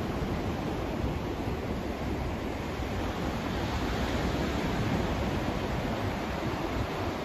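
Steady white noise: an even, unchanging hiss, fuller and deeper in the low end.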